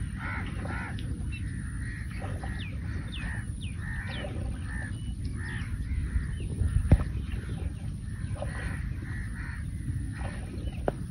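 Birds calling over and over in short repeated notes, over a steady low wind rumble. A single sharp knock about seven seconds in is the loudest sound.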